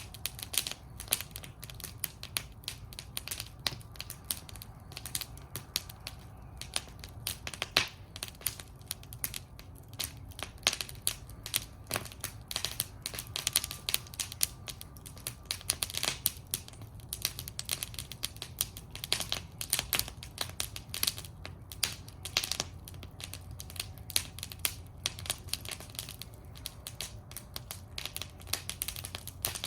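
Wood fire burning in a metal fire bowl, crackling steadily with many irregular sharp pops and snaps over a low rumble.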